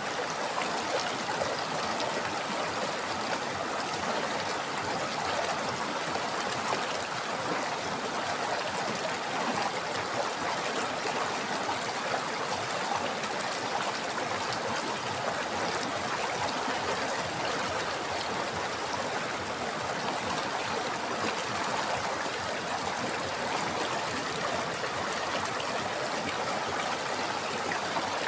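A river running over rocks, a steady rushing and trickling of water that does not change.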